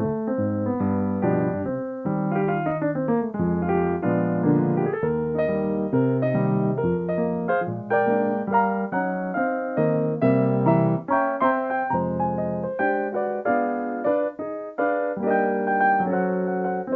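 Solo piano playing a continuous flowing accompaniment, many notes struck in quick succession with sustained chords underneath.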